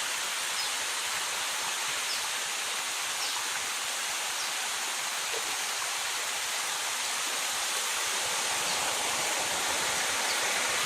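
Steady rush of flowing river water, typical of a small waterfall.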